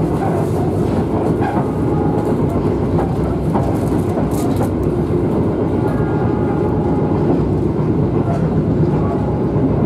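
KA Bima executive passenger train running at speed, heard from inside the coach: a steady rumble of wheels on the rails with a few light clicks.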